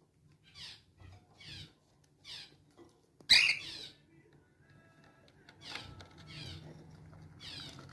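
A cockatiel giving short chirping calls, each sweeping down in pitch, about one a second, with one much louder, shriller call about three seconds in.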